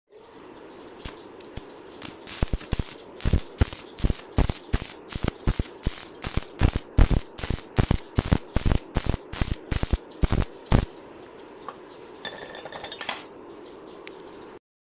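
Regular sharp knocking, about two to three strikes a second, building up and then stopping abruptly after about nine seconds, followed by a short rattle.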